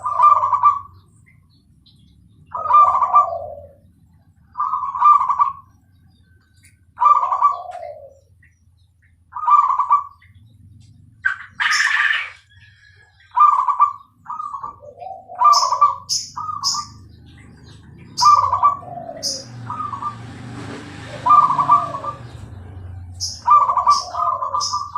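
Zebra dove (Bangkok perkutut) singing: repeated short cooing phrases, a couple of seconds apart at first and coming faster in the second half, with brief high chirps between them.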